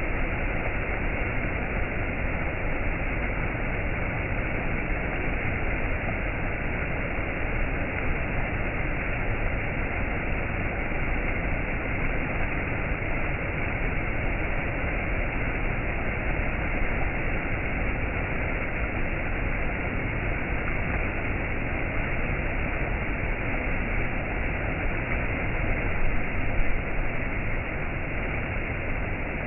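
Waterfall water rushing and splashing in a steady, even roar, swelling slightly for a moment near the end.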